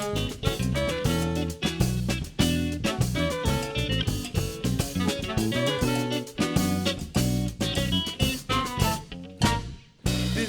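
A live band playing an instrumental passage on guitar, bass and drums with a steady beat. Near the end the band briefly drops out, then comes back in.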